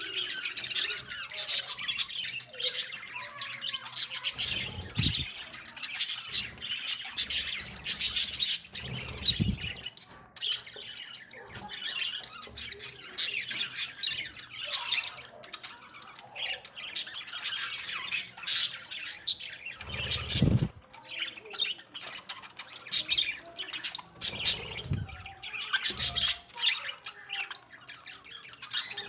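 Pet budgerigars chattering and squawking in a busy, continuous stream of short, high calls. A few dull low thumps break in now and then.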